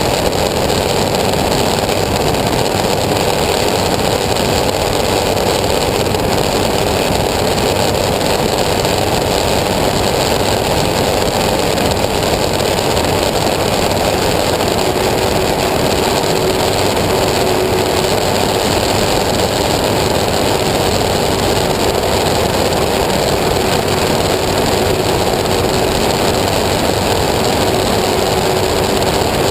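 Engine of a homemade aircraft running steadily at constant speed, with a faint steady hum in its sound from about halfway through.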